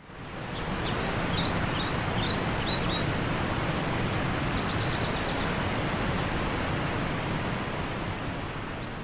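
Outdoor nature ambience: a steady, even noise that fades in, with small bird chirps over the first few seconds and a short, rapid trill about halfway through.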